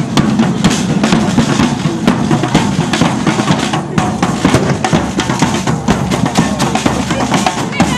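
Marching band drums beating, snare and bass drums struck in a dense, steady rhythm.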